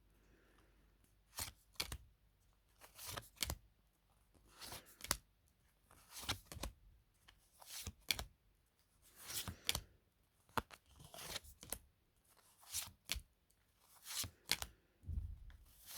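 Tarot cards being handled one after another: short swishes and taps of card stock as each card is slid off the deck and set down, about one every second.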